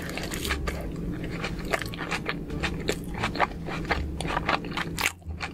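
Close-miked chewing of a mouthful of cheese- and sauce-covered animal fries: continuous wet mouth clicks and smacks.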